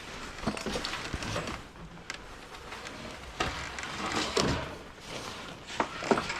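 Objects being handled and rummaged through: scattered knocks and clicks with rustling, loudest a little past the middle.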